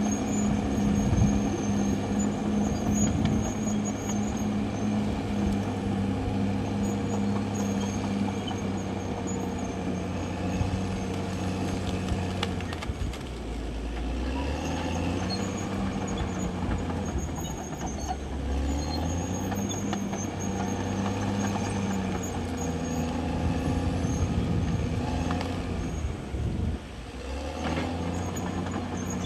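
CAT D6R XL bulldozer's diesel engine running steadily under work; its engine note drops about thirteen seconds in and climbs back a couple of seconds later, with another brief dip near the end.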